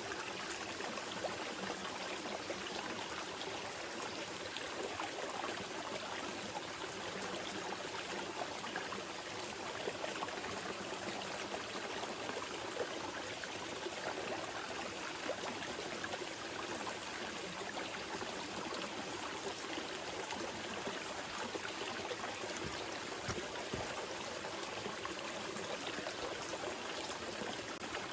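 Small mountain river flowing steadily over rocks, a continuous rush with fine splashing and trickling.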